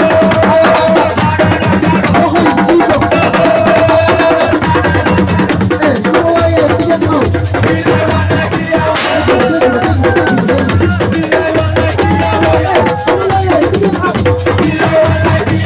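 Assiko band music: dense, fast drumming with a wavering melody line over it, played loud. A brief noisy burst cuts in about nine seconds in.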